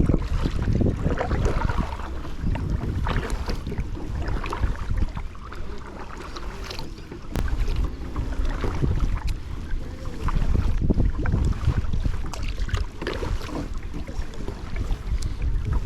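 Water splashing and lapping around a kayak as it is paddled, in irregular splashes, with wind rumbling on the action camera's microphone.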